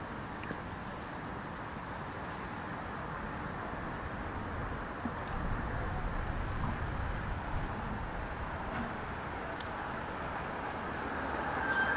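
Street traffic noise: a steady hum of road traffic, with a vehicle passing and the rumble swelling about five to eight seconds in.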